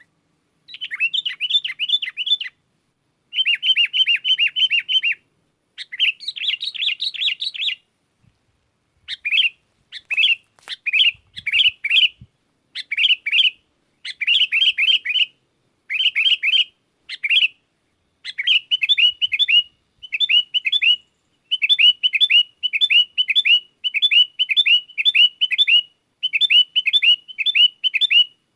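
Sooty-headed bulbul singing vigorously: burst after burst of quick, repeated, bright whistled notes, each burst a second or two long with short silent gaps between. Toward the end the bursts come closer together.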